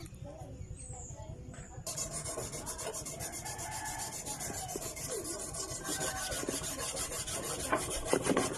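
A brush scrubbing in quick, even back-and-forth strokes, starting about two seconds in.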